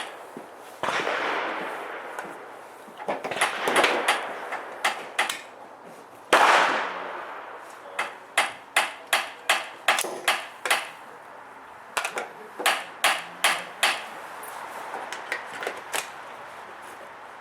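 Sig 522 .22 LR semi-automatic rifle firing on a shooting range. There are two loud single shots with ringing echo, then quick strings of shots about two to three a second.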